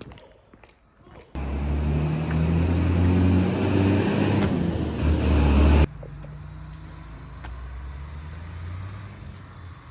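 A motor vehicle's engine running with a deep, steady hum. It comes in suddenly loud about a second in, breaks off abruptly about four seconds later, and a quieter engine hum carries on and fades near the end.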